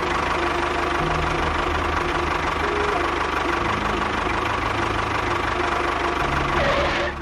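A small motor running steadily with a dense, buzzing noise and a fast low pulse, with background music underneath.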